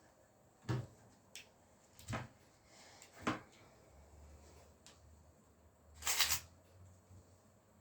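Household handling sounds: four short knocks and clatters in the first few seconds, then a brief louder rustle or swish about six seconds in.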